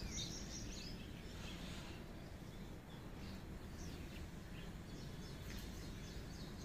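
Faint, scattered bird chirps over a steady low background noise of outdoor ambience.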